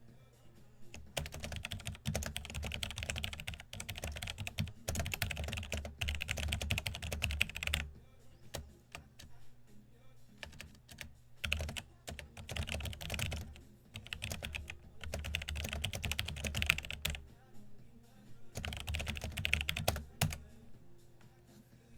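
Typing on a computer keyboard in four bursts of rapid key clicks with short pauses between them.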